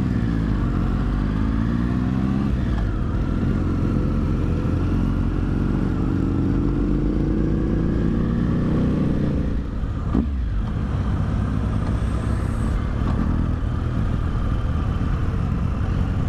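Motorcycle engine running under way from the rider's own bike, its pitch climbing slowly as it pulls for about nine seconds. A short dip and a click come about ten seconds in, then it runs steadily.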